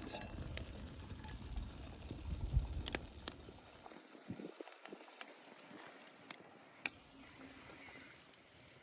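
Wood fire crackling, with scattered sharp pops. A low rumble in the first four seconds drops away.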